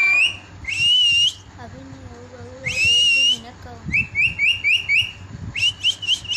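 A parrot whistling: two long loud whistle notes, each rising then falling, then a run of short rising chirps and a quick series of notes near the end.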